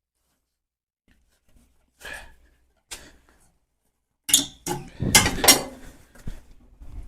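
Metal clanks and rattles from a semi-trailer's landing-leg crank handle being worked: two light knocks, then a louder burst of clattering about four seconds in.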